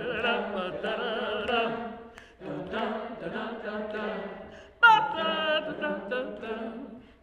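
A group of voices singing a cappella in a wordless vocal improvisation, several held notes with vibrato overlapping in harmony. The singing drops out briefly about two and a half seconds in, then a bright voice enters again near five seconds.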